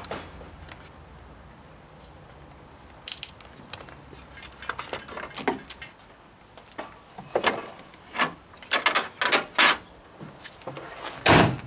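Car engine idling low and steady, dying away about six seconds in, while a run of sharp clicks and rattles from handling builds up and ends in a loud thump near the end.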